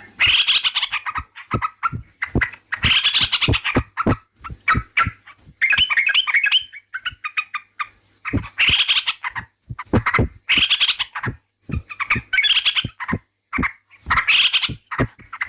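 Yellow-vented bulbul (trucukan) singing: short, bubbly chattering phrases repeated about every one and a half to two seconds, with brief pauses between them.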